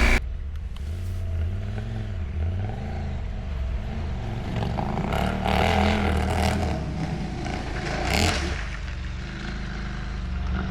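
Adventure motorcycle's parallel-twin engine running at low revs, its pitch rising and falling as the bike rides over rough ground. Scraping and clattering come through a few times between about five and eight seconds in.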